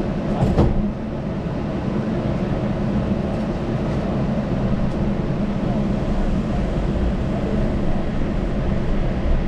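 Yurikamome rubber-tyred automated train running, heard from inside the car: a steady low rumble and hum, with a brief knock about half a second in.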